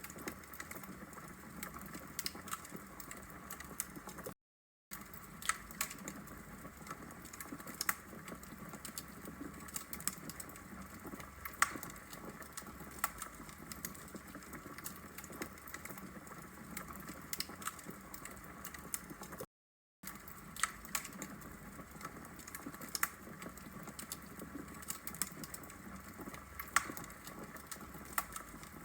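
Wood fire burning in a brick fireplace, crackling: irregular sharp pops and snaps over a soft steady hiss. The sound cuts out completely for a split second twice.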